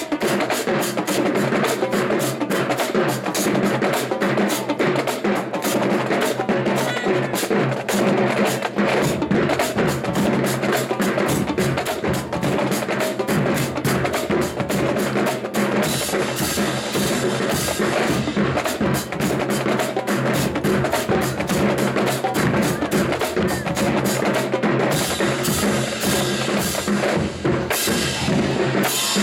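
Marching band drumline playing fast, dense patterns on snare and bass drums, with the low end growing fuller about nine seconds in.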